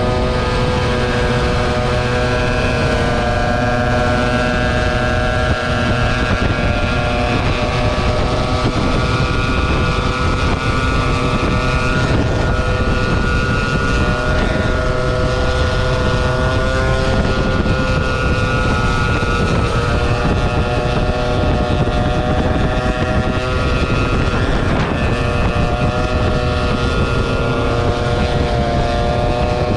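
Motor scooter engine running steadily while riding, its pitch drifting a little up and down, with wind noise on the microphone.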